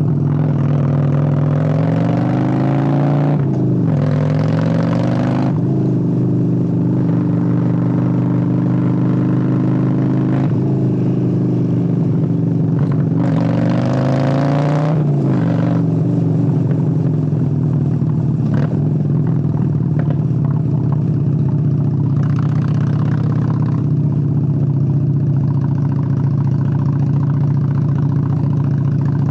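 Honda Steed 600 (Shadow 600) V-twin engine pulling up through the revs several times in the first half, the pitch dropping at each gear change, then holding a steady low note for the rest.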